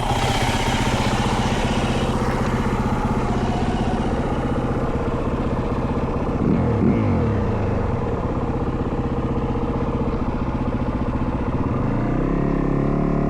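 Yamaha WR450F dirt bike's single-cylinder four-stroke engine running steadily, with a quick rev up and down about six and a half seconds in and another change in pitch near the end.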